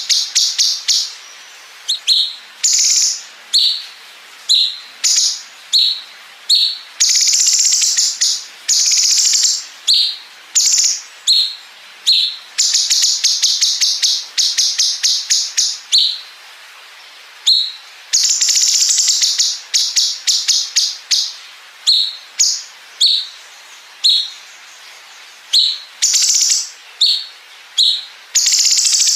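Cucak cungkok songbird singing loudly: short high whistled notes alternating with long runs of rapid stuttering trill, the machine-gun-like 'bren' fill, each run lasting a few seconds.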